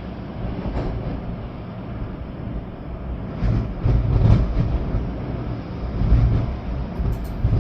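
Storm wind gusting with steady rain, the stronger gusts buffeting the microphone as low rumbles about halfway through and again about six seconds in.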